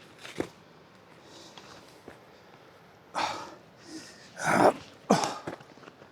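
A hiker moving along a rough trail, making short scuffing and breathy noises. Three louder noisy bursts come between about three and five and a half seconds in.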